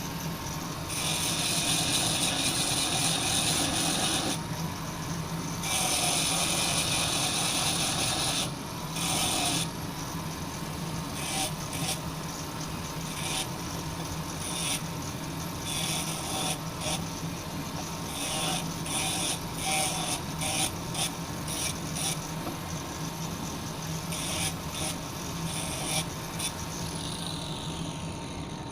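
A tool cutting a metal pipe: two long stretches of rasping noise, then many short, irregular strokes, over a steady hum of ship machinery.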